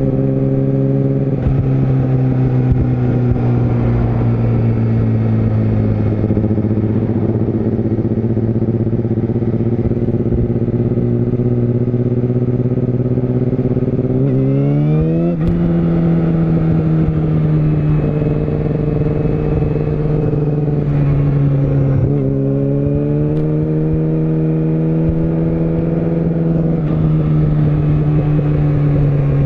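Yamaha YZF-R6 inline-four sport bike engine running under way at moderate, fairly steady revs. About halfway through the revs climb sharply for a second and drop back to a steady pitch, and they rise again a little later.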